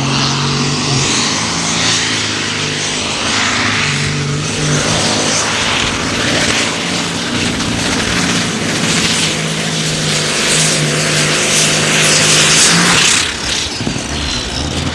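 A tractor-pulling tractor's engine running hard at full power during a pull, its pitch shifting in steps. It drops off sharply about thirteen seconds in.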